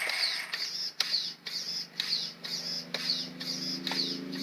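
RC truck's steering servo whirring in short strokes, about two or three a second, as the front wheels are steered back and forth, with a few clicks.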